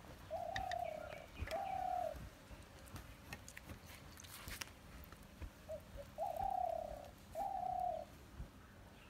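A bird calling: two long, low, slightly falling notes, given as a pair and repeated about five seconds later.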